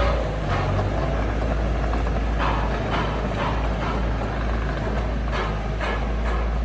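Heavy earthmoving machine engine running steadily at a low rumble, with short sharp knocks or clanks at irregular intervals.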